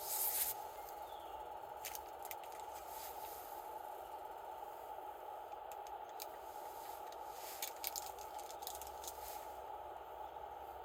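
Wood campfire crackling: scattered sharp pops over a steady hiss, with a louder cluster of pops at the start.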